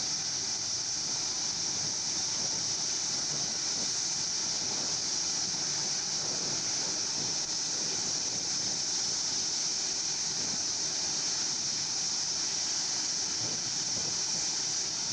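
Boeing 757 jet engines running, a steady even rushing hiss with no rise or fall in pitch, which cuts off suddenly at the end.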